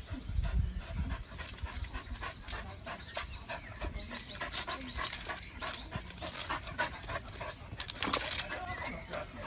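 A dog panting, with short, irregular noisy breaths.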